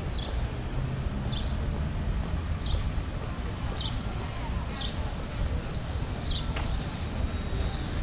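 A bird calling over and over in short, high, downward-sliding chirps, about once a second, over a steady low rumble of wind and walking noise on the microphone.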